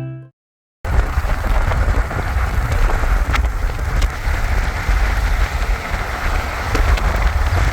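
Steady heavy rain falling, starting abruptly about a second in after the tail of background music, with a few sharp drop hits standing out.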